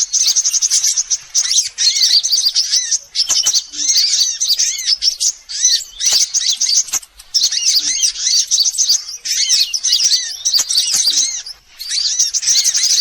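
Sunbirds calling in a bird-lure recording: dense, rapid, high-pitched twittering chirps and trills, broken by short pauses twice. A soft, low note sounds every few seconds beneath the chirps.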